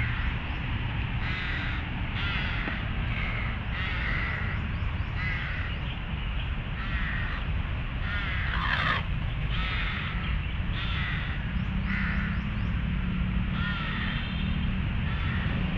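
Birds calling repeatedly, short harsh calls about once a second, with one longer call falling in pitch about nine seconds in, over a steady low rumble.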